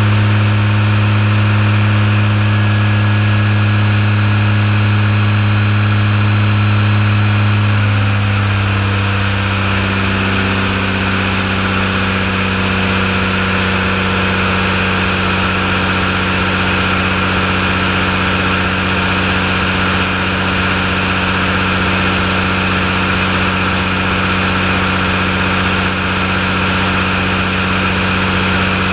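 Caterpillar 3406E inline-six diesel engine running on a dynamometer test stand. It runs steadily, and its note changes about nine seconds in, then holds at the new speed.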